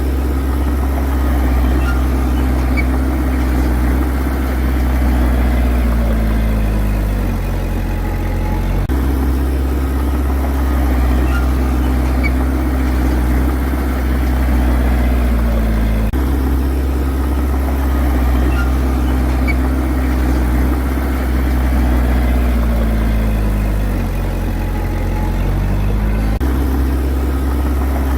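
Heavy diesel engine of a bulldozer running steadily. Its pitch sags and comes back twice, and the note changes abruptly a few times.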